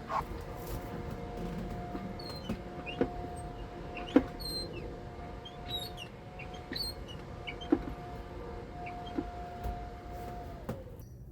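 A small electric motor whining steadily, with scattered clicks and knocks over it; the whine drops in pitch and stops near the end.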